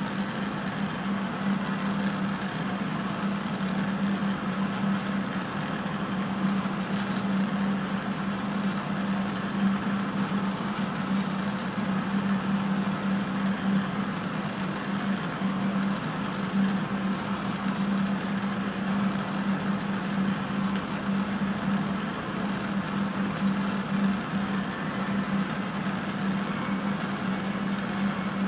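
Several ventilation fans and a fume extractor running steadily: a continuous rush of air over a low, constant hum, drawing off soldering fumes.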